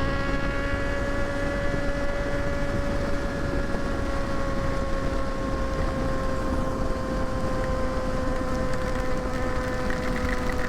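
Kawasaki ZX-6R's inline-four engine running at a steady cruise, its note sagging slowly in pitch through the second half, with wind rushing over the rider's microphone.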